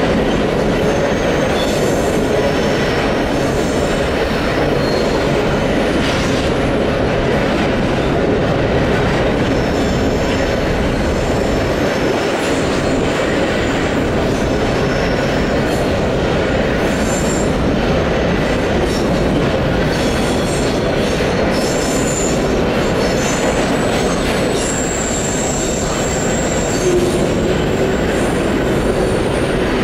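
CN grain train's covered hopper cars rolling past close by, a steady loud rumble of steel wheels on rail. Brief high-pitched wheel squeals come and go, the longest about three-quarters of the way through.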